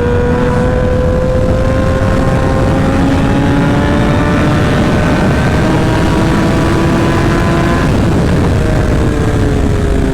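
Sportbike engine with a short SC Project exhaust at highway speed, its pitch climbing steadily for about eight seconds, then dropping as the rider shifts up or rolls off. Heavy wind rush over the helmet camera's microphone runs underneath.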